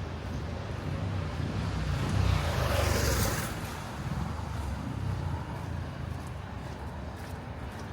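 Street traffic with a steady low rumble; a vehicle passes close by, loudest about three seconds in, then fades.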